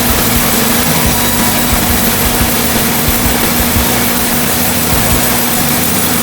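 Homemade band sawmill driven by a salvaged Ford industrial engine, running steadily at an even pitch with no change in speed.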